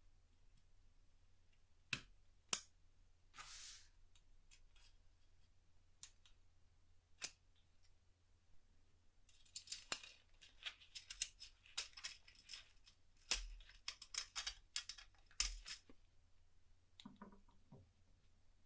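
Light clicks from handwork with small tools: a few scattered clicks and a short scrape, then a dense run of quick clicks lasting several seconds.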